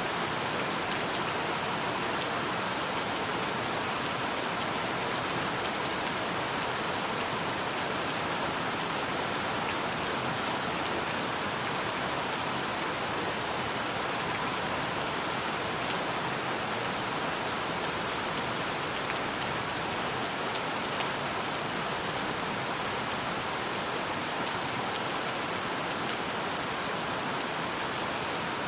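Steady rain, a dense even hiss of drops hitting a surface, with scattered individual drip ticks.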